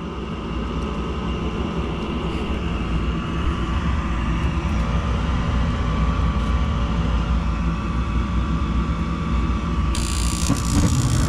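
Gas furnace starting on a call for heat: the draft inducer motor runs with a steady hum and whine. About ten seconds in, the burners light with a brief rushing hiss as the flame carries across quickly.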